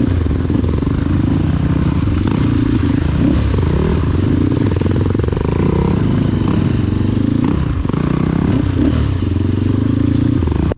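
Trail motorcycle engine running under load, its revs rising and falling again and again.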